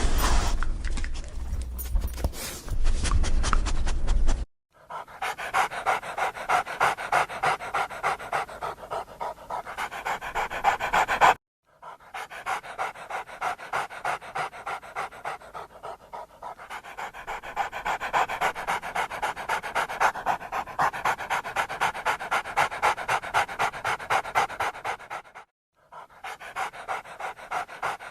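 Dog panting fast and evenly, in several short takes joined by abrupt cuts with brief silences between them. The first few seconds also carry a heavy low rumble underneath the panting.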